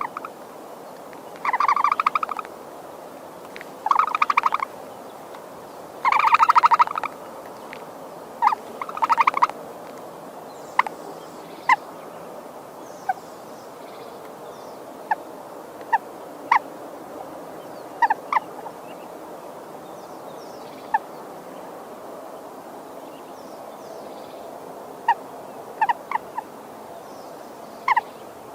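Domestic fowl calling: four loud, fast rattling gobble-like bursts in the first ten seconds, then scattered short, sharp single clucks over steady background noise.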